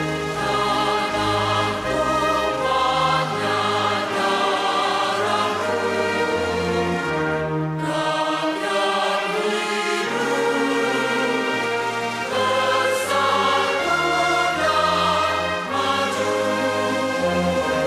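Choir singing held, slow-moving notes over an orchestral accompaniment with a changing bass line.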